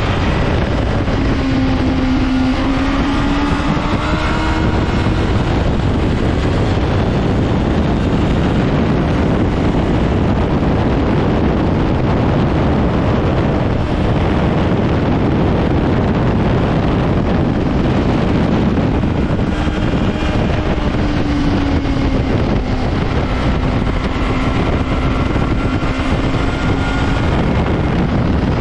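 Honda CBR600RR's inline-four with its stock exhaust, running at a steady road speed under heavy wind rush on the microphone. The engine's steady hum shows through near the start and again for the last third, while wind noise swamps it in the middle.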